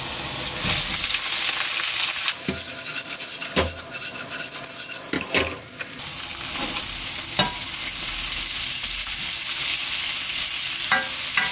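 Olive oil sizzling with minced garlic and crushed dried chili in a nonstick wok. Whole shell-on shrimp then frying in the oil and being stirred with a wooden spatula, with a few short knocks against the pan.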